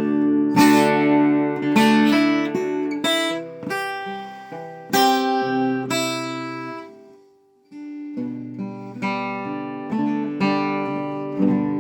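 Acoustic guitar strumming chords with no singing. The chords ring down to almost nothing about two-thirds of the way through, then the strumming starts again.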